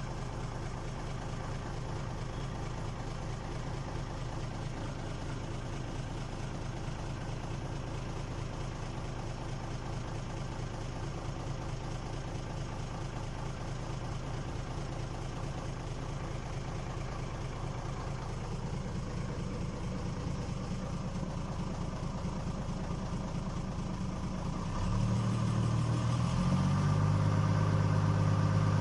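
Engine idling steadily. About 25 seconds in it turns louder, with a stronger low hum.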